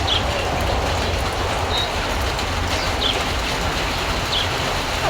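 Steady rain falling, an even hiss with a low rumble beneath, with short high chirps now and then.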